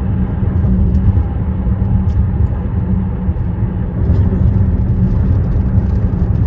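Steady low rumble of car tyres on a concrete bridge deck.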